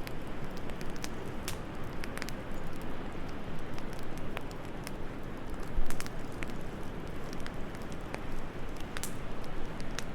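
Wood fire crackling in a fireplace, with irregular sharp pops and snaps over a steady low rush of wind. A single louder low thud comes just before six seconds in.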